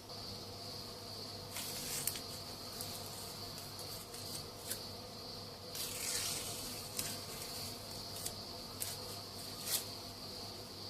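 Steady high-pitched insect buzzing, with a low hum beneath it and a few short scrapes and sharp clicks scattered through it.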